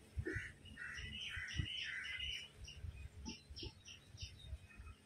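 Birds chirping, with a run of short repeated calls and then quicker, higher chirps in the second half. A few low thumps are mixed in, the loudest about a second and a half in.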